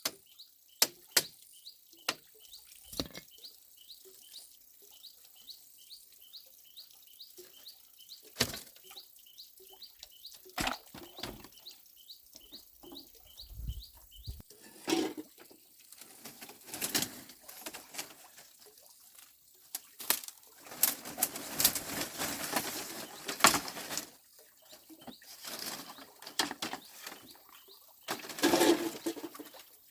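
A bird chirping in a quick, regular series for about the first half, with scattered sharp knocks. Louder bursts of rustling and handling noise follow in the second half.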